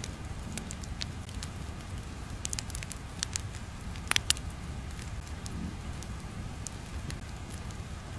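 Crackling-fire ambience: irregular crackles and pops over a low steady rumble, with two louder pops about four seconds in.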